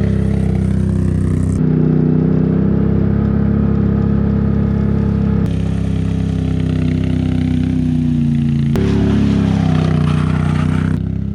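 Can-Am Outlander 800 ATV's V-twin engine running under load as it drags a screen over topsoil, its pitch rising and falling. The sound changes abruptly three times.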